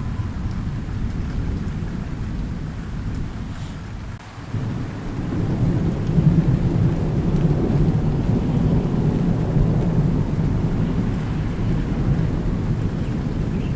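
Thunderstorm: rolling thunder over steady rain. One rumble dies away about four seconds in, then a new roll of thunder swells up and rumbles on.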